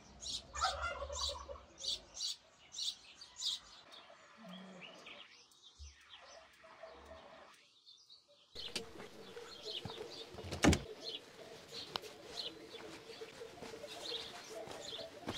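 Birds chirping in quick rows of short high calls, with a lull partway through. About ten seconds in comes a single sharp knock, the loudest sound.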